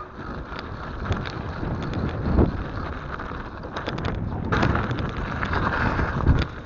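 Mountain bike coming down a snowy trail: wind rushing over the microphone, with tyre noise and many short knocks and rattles from the bike over the bumps.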